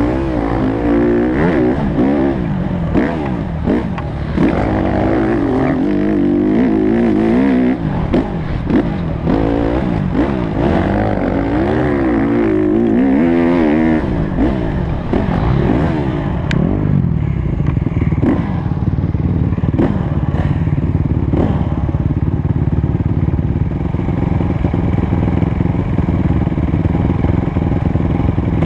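Honda CRF150 dirt bike's four-stroke single-cylinder engine being ridden hard, its revs climbing and falling over and over through the throttle and gear changes. About halfway through it settles to a steadier, lower running note.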